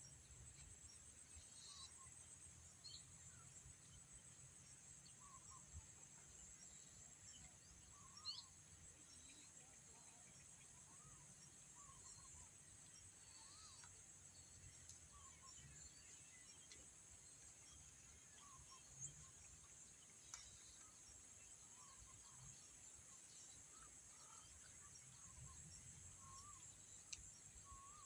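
Faint rural outdoor ambience: a steady, high-pitched insect drone with scattered short bird chirps.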